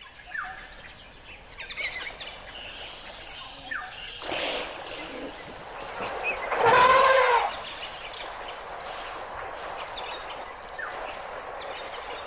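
Birds chirping now and then over steady outdoor background noise. A little past the middle comes a loud, pitched call about a second long that rises and then falls in pitch.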